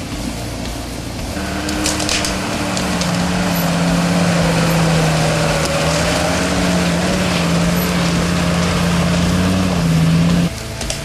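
Off-road vehicle engine held at steady high revs, pulling hard for several seconds, then cut off abruptly about ten and a half seconds in.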